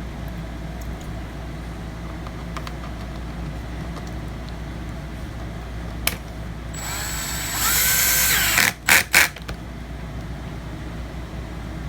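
Small electric screwdriver driving a screw into a laptop's bottom case: a whir of about two seconds that gets louder partway through, then two short blips as the screw is snugged down.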